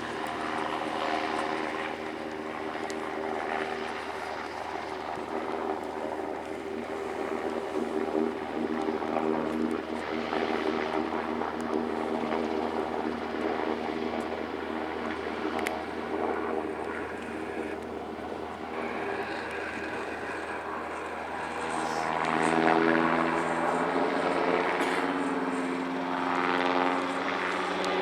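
NH90 helicopter in flight: its twin turbine engines and rotors make a steady pitched drone over rotor noise. It grows louder and its tones shift about three-quarters of the way through.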